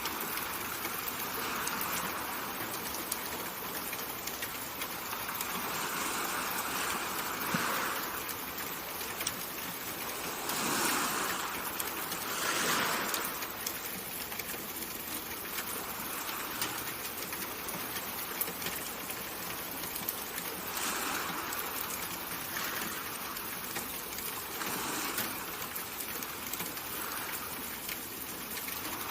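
Steady rushing water ambience, a soft even hiss that swells gently every few seconds.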